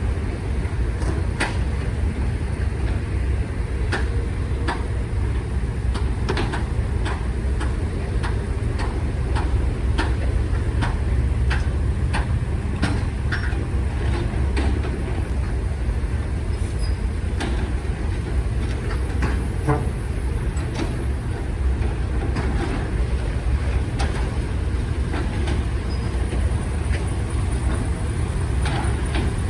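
Heavy diesel construction machinery running with a steady low rumble, with frequent sharp metallic clanks and knocks throughout.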